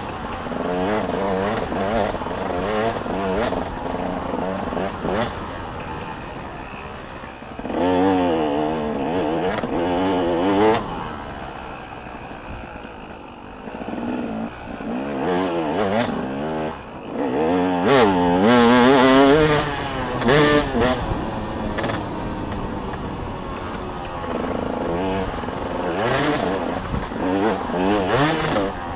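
Motocross dirt bikes racing, engines revving up and down through the gears as they pass, with louder passes about eight seconds in and again around eighteen seconds.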